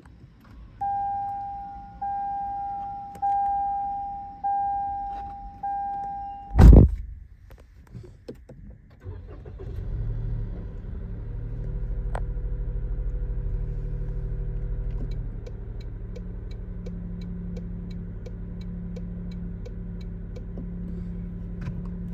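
Five evenly spaced electronic chimes from the car, then a sharp loud thump. About nine seconds in, the Toyota Yaris Cross's 1.5-litre three-cylinder petrol engine cranks and starts, runs at a raised idle, and settles to a lower steady idle a few seconds later, with a faint regular ticking.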